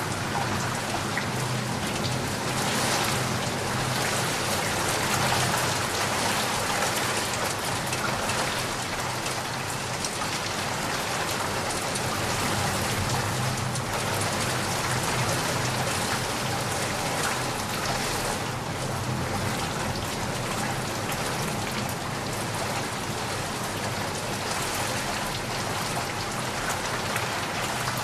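Steady rain falling, an even hiss of many drops on surfaces with no breaks.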